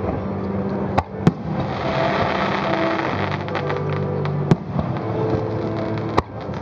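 Aerial fireworks bursting: four sharp bangs, two close together about a second in, one in the middle and one near the end, with a crackling hiss between the first bangs and the middle one.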